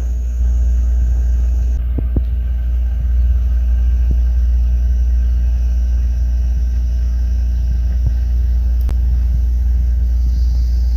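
Steady low rumble and hum from running appliances, with a few light clicks about two, four and nine seconds in.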